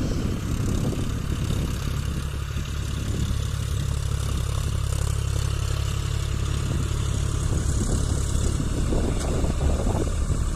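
John Deere 5050D tractor's diesel engine running steadily with a constant low drone.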